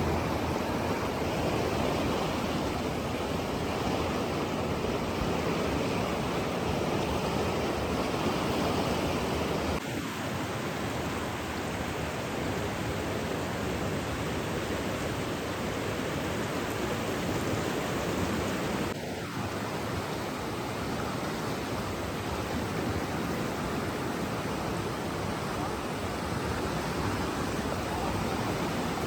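Steady rushing water, an even hiss-like roar, with slight shifts in its tone about ten and nineteen seconds in.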